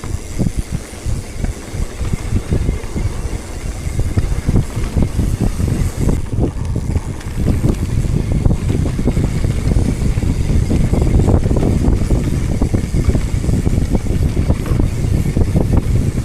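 Wind buffeting the microphone while moving: a loud, uneven rumble that swells and drops in gusts, strongest from about halfway through.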